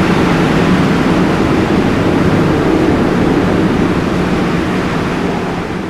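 A 230-megawatt Francis hydro turbine running in a pumped-storage plant: a steady, powerful hum over a broad rushing noise, easing off slightly near the end.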